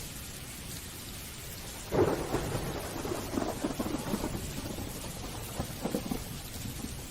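Steady rain falling, with a sudden thunderclap about two seconds in that crackles and rumbles for several seconds before fading back into the rain.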